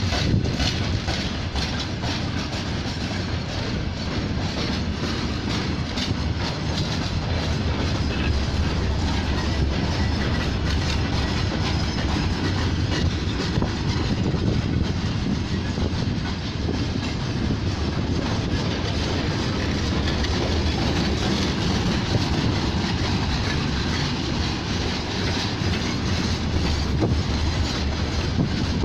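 Empty timber freight wagons rolling past, their wheels giving a steady low rumble with a continual clickety-clack and clatter over the rail joints.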